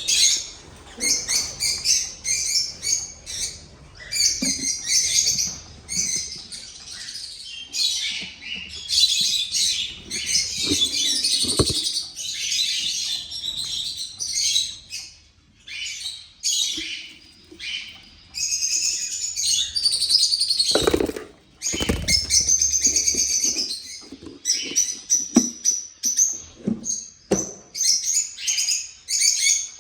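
Caged Gouldian finches chirping constantly in many quick, high calls, with wing flutters and a few sharp knocks, the loudest near the middle.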